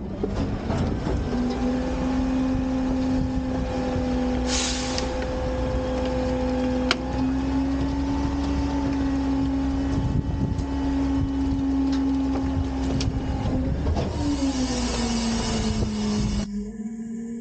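Garbage truck's diesel engine revved up and held at a steady higher speed while its hydraulics lift and dump a bin. Near the end the engine drops back to idle. There is a short burst of air hiss about four seconds in and a longer one near the end, with a few sharp clunks in between.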